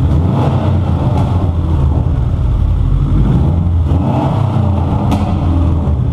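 Subaru GC8 Impreza's turbocharged flat-four boxer engine, freshly rebuilt with its heads on a replacement block, running with the revs lifted briefly twice, about half a second in and around four seconds in. A sharp click sounds near the end.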